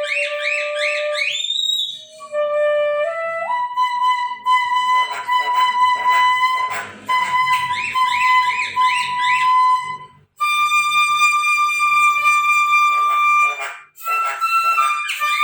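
A bangdi, the high Chinese bamboo flute, plays a melody of long held notes with quick trilled ornaments, over a soft accompaniment. It breaks off briefly twice, about ten and fourteen seconds in.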